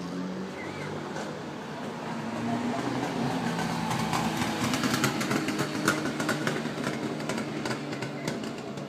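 Vintage car engine running as the car goes past, getting louder toward the middle and easing off near the end, with a run of sharp crackles over it.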